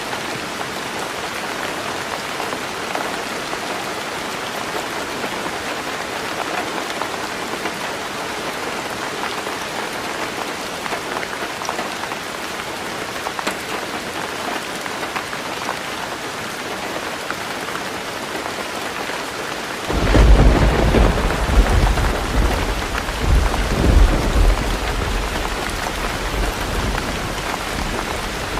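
Heavy rain falling steadily on a tin roof. About two-thirds of the way in, a deep rumble of thunder breaks in suddenly, swells twice and then fades.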